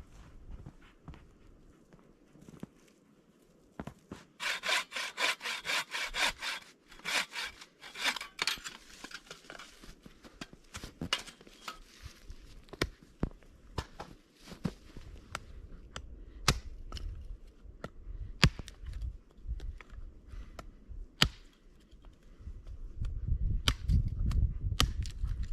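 A saw cutting through wood in a run of quick, rasping strokes for about five seconds, followed by scattered knocks and clicks. A low rumble builds near the end.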